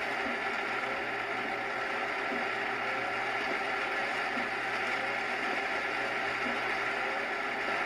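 Scania Streamline truck running steadily on the road: a constant engine and road noise, with a faint sound repeating about every two seconds.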